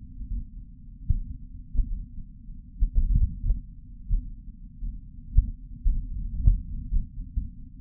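Martian wind recorded by the Perseverance rover's microphone: a low, muffled rumble of gusts that swells and fades irregularly, with a few faint clicks.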